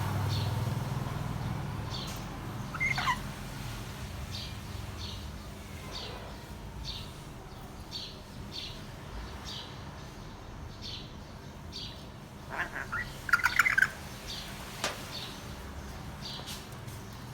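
African grey parrot making short, high chirps at a steady pace of about one every 0.7 s, with a louder falling whistle about 3 s in and a burst of louder squawky calls around 13 s in.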